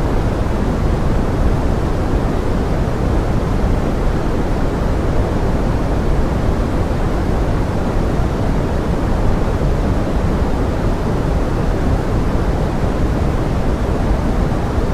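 Steady pink noise styled as forest rain: an even, deep hiss, fullest in the low end and fading toward the top, with no separate drops or breaks.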